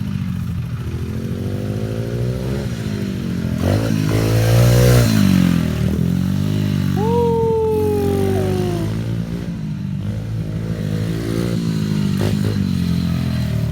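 Small pit bike engine revving up and down over and over as it is ridden, loudest about four to five seconds in. Midway, a separate higher tone slides down in pitch for about two seconds.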